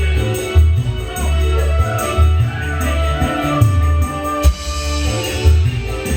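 Live dangdut band playing an instrumental passage: a sustained melody over a pulsing bass beat, about two strokes a second, with tambourine-like jingles.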